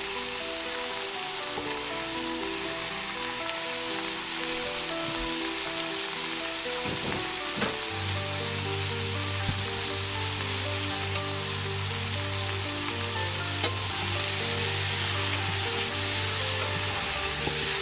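Food sizzling steadily on the stove, with a few sharp knocks as the pot of chopped vegetables is stirred. Background music plays under it.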